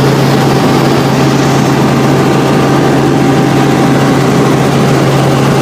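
Helicopter engine and rotor running with a loud, steady drone and an unchanging low hum.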